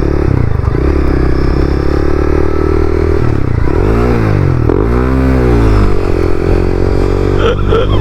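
Honda CBR300R's single-cylinder engine running under the rider, its revs rising and falling twice near the middle, with wind noise over it. The bike has been acting up, its revs kicking up on their own.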